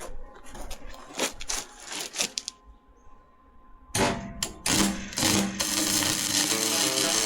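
A quick run of sharp clicks and knocks, a short lull, then a few more knocks; background music starts about two-thirds of the way through.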